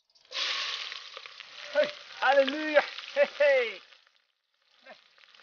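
Chicken tipped from a leaf into a hot pot over a wood fire, sizzling loudly at once. The sizzle fades away over about three and a half seconds, with voices calling over it in the second half.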